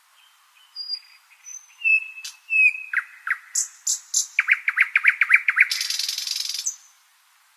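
Nightingale singing one phrase: scattered thin whistles and chirps, then a fast run of about ten repeated notes, ending in a harsh buzzy trill shortly before the end.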